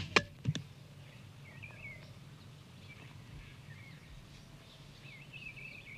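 Two or three sharp knocks in the first half-second, then birds chirping faintly now and then over a low steady hum.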